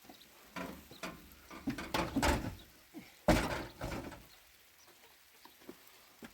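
Rustling and scraping handling noises, then one loud thump just over three seconds in that dies away over about a second.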